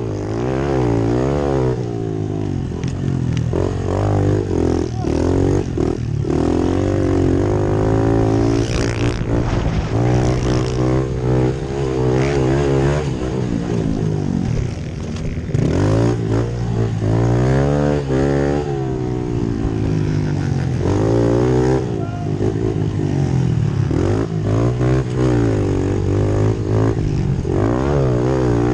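Pit bike engines revving, their pitch climbing and dropping over and over as the bikes ride.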